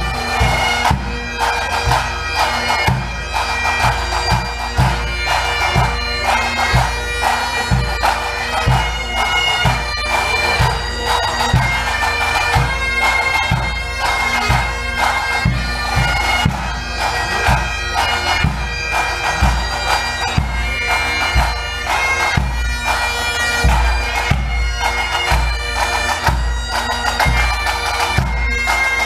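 Pipe band playing: bagpipes sounding a melody over their steady drones, with drums beating a regular rhythm underneath.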